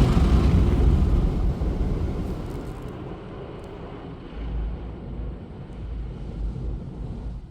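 Automatic car wash machinery running: a loud rushing noise that dies away over about three seconds, leaving a low rumble.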